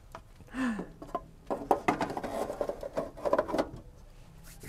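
A quick run of small knocks and clatters from the improvised camper oven and its food being handled, as the oven is opened to check the baking potatoes. A short low voice sound comes about half a second in.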